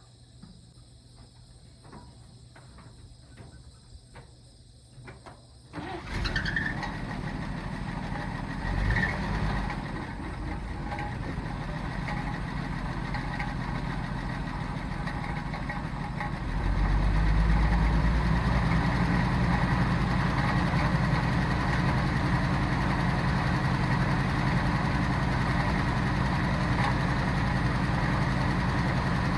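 A 1940–41 Chevrolet army truck's engine starts up about six seconds in after a few faint clicks. It runs with a brief rev a few seconds later, then settles into a louder, steady run from about sixteen seconds in.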